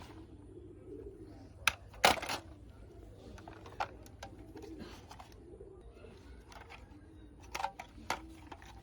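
A bird cooing in low, repeated notes about once a second, with a few sharp clicks or knocks, the loudest about two seconds in.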